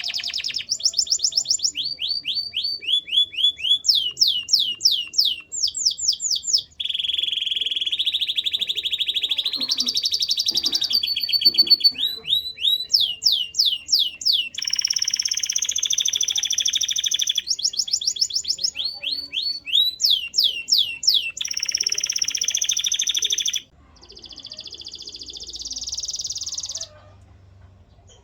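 Male domestic canary singing a long song: phrases of fast repeated falling notes alternate with steady buzzy rolls, with a short break about six seconds in. Near the end the song drops to a quieter trill and stops about 27 seconds in.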